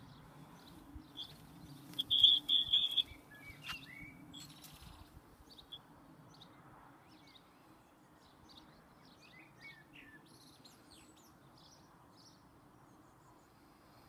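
Wild birds singing and chirping. A loud, high, even trill comes about two seconds in, followed by quieter scattered chirps over a faint low steady hum.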